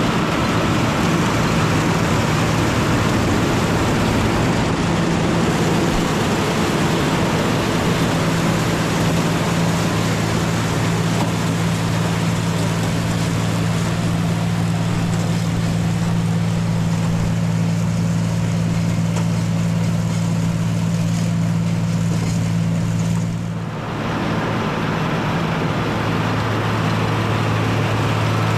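Tractor engine running steadily while it works a mounted two-row corn picker through the corn. About three-quarters of the way through, the engine note dips briefly, then picks back up.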